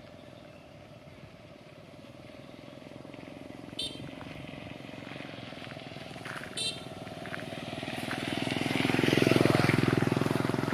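A motor vehicle's engine drawing closer and passing, louder and louder until near the end, then starting to fade. Two short high chirps sound a few seconds apart before it peaks.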